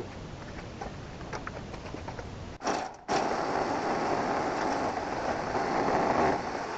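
An electric power tool running steadily for about three seconds, starting about halfway in and fading near the end, with a short burst just before it.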